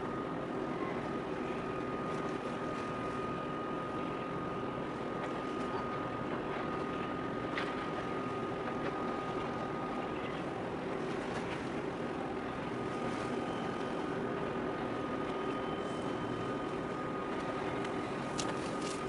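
Steady mechanical drone of a large ship's engine, with a thin steady whine on top and a few faint ticks near the end.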